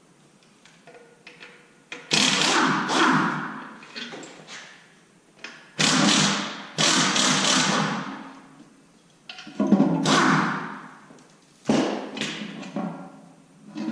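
A series of loud clunks and scraping knocks, about five in all, each dying away over a second or so, as the oil pan of a 6.0 LS V8 is worked loose and taken off the engine block.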